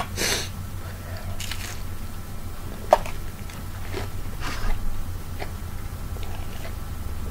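Someone biting and chewing breaded fried shrimp close to the microphone: scattered crunches, with one sharp click about three seconds in.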